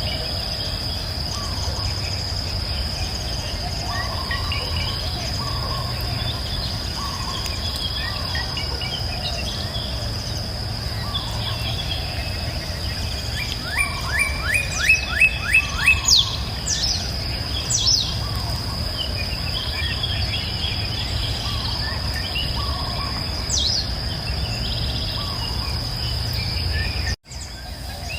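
Birds singing and calling over a steady high-pitched insect drone and a low steady rumble. About halfway, one bird gives a loud run of rapid repeated notes, the loudest sound here. The whole sound cuts out for an instant near the end.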